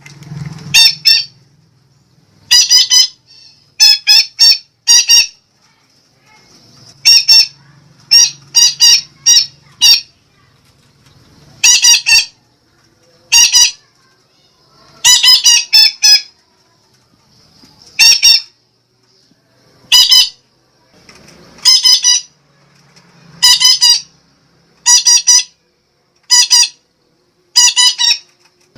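Sumatran betet parakeet giving loud, harsh squawking calls: short notes, singly or in quick runs of two to four, repeated every second or two.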